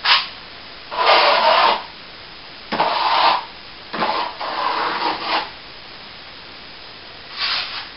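Hand plastering tool scraping across a plaster wall in several separate strokes, each under a second long, with short gaps between them.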